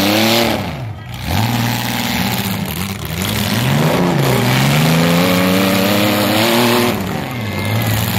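Demolition derby compact car's engine revving hard through open exhaust stacks, its pitch climbing and dropping off four times in a row.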